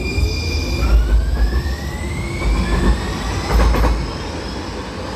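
A one-car Muni Metro Siemens light-rail train accelerating through an underground station. Its traction motors whine in stepped, rising pitches over a low rumble of wheels on rail, with a short clatter of wheels over rail joints near the end.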